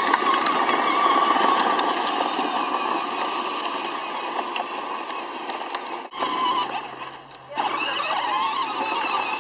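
Electric motor and gearbox of a 12-volt Peg Perego John Deere Ground Force ride-on toy tractor whining steadily as it drives. The sound cuts off abruptly about six seconds in, goes quieter with a low steady hum, and comes back louder and more wavering near the end.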